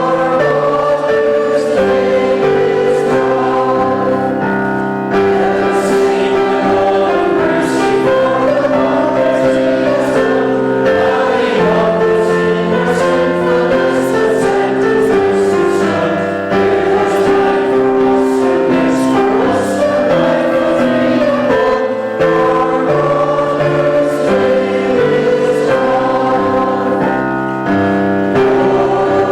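Church congregation singing a hymn together with instrumental accompaniment, in steady sustained chords.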